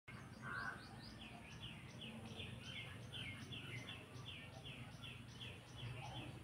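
A bird calling a steady run of short, falling chirps, about three a second, with one lower, louder call about half a second in, over a faint low hum.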